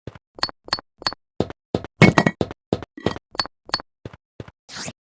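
A rhythmic series of sharp knocks and clinks, about three a second, with a louder cluster about two seconds in.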